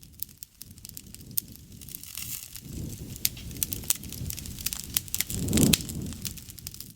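Wood fire crackling, with frequent sharp pops and snaps over a low rush of flame that swells twice, around three seconds in and again near six seconds.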